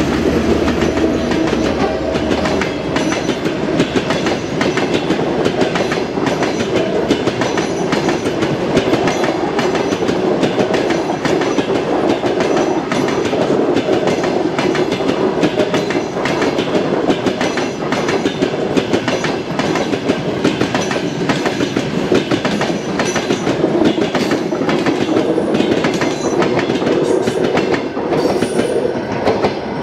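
Passenger coaches of an express train rolling past at speed: a steady heavy rumble with a rapid clickety-clack of wheels passing over rail joints.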